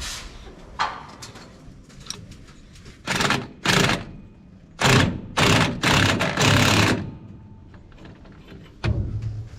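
Impact wrench hammering on a gearbox bolt in six short bursts, trying to break it loose, with a knock before and after.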